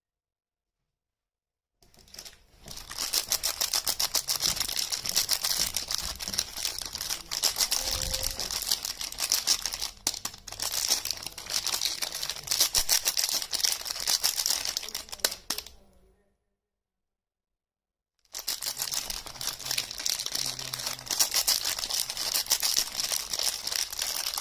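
Soap packaging being crinkled and torn open: dense, rapid crackling that starts about two seconds in, stops for about two seconds, then starts again.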